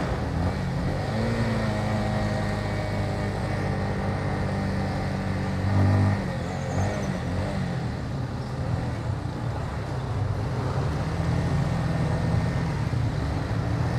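Motorcycle engine running while riding, its pitch and level shifting with the throttle: it rises to a louder note about six seconds in, drops off, then climbs again toward the end, over steady wind and road noise.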